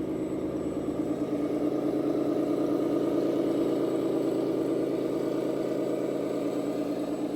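Scale RC model truck or tractor running: a steady, engine-like drone with a fine rapid pulse, swelling slightly about two seconds in.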